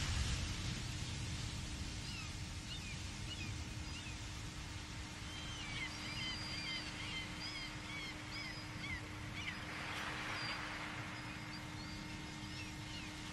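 A small bird twittering in a rapid series of short, high chirps, over a steady low hum and background hiss.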